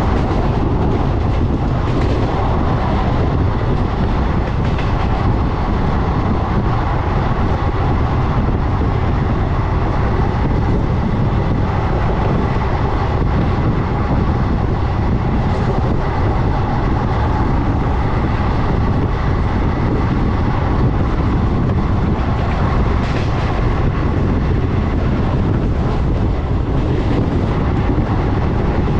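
Passenger train running along the track at steady speed, heard from aboard: a continuous rumble of wheels on rails with some clickety-clack.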